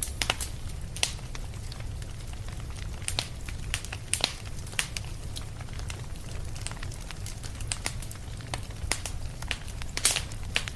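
Wood fire crackling in a fireplace: irregular sharp pops and snaps over a steady low rumble, with the loudest pop about ten seconds in.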